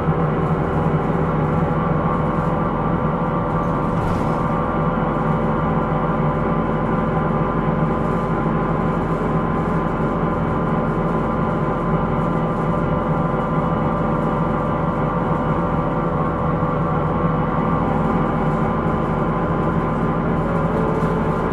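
Interior running sound of a Hino Rainbow II (SDG-KR290J1) non-step bus cruising at a steady speed. It is a steady drone with several even, unchanging whining tones over it. The bus is recorded for its abnormal noise (異音).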